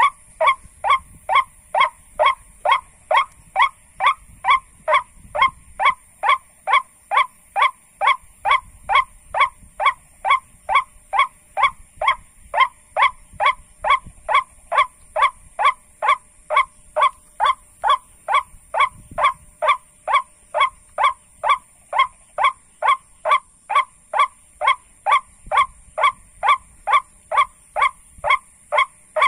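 White-breasted waterhen (ruak-ruak) call, the same short note repeated very evenly about twice a second, over a steady high hiss.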